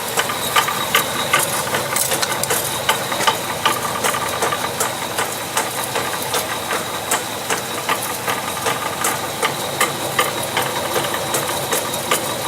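Honda CR-V's automatic-transmission drivetrain running in Drive with the front wheels off, knocking sharply about two to three times a second, in step with wheel rotation, over the steady engine hum. The knock rings through the propshaft. The owner first took it for the inner CV joint and later traced it to the automatic transmission's differential.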